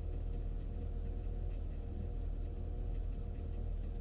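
Steady low hum of a GMC Savana 3500's 6.0-litre V8 engine idling, holding an even level with a faint constant tone over it.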